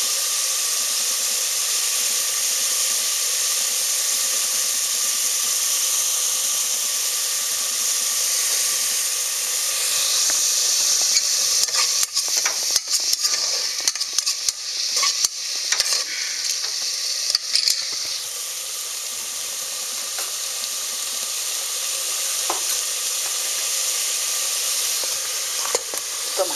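Chopped onion and herbs sizzling as they fry in oil in the inner pot of an electric pressure cooker, a steady frying hiss. From about ten seconds in to about eighteen a spoon stirs and scrapes against the pot, adding a rapid run of clicks and scrapes, and the sizzle grows louder; a few more clicks come near the end.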